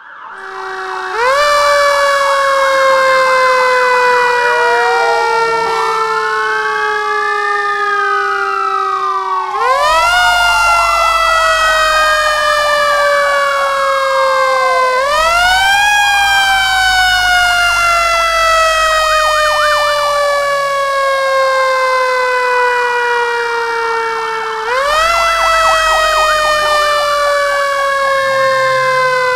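Fire truck sirens: a wailing siren rising and falling every few seconds, layered over a loud siren tone that leaps up in pitch and then slowly sinks, starting over about four times.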